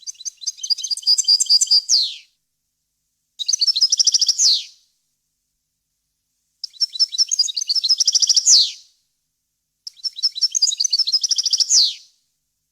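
European goldfinch singing: four song phrases of quick, high twittering trills, each about one to two seconds long and ending in a falling note, with silent gaps between them.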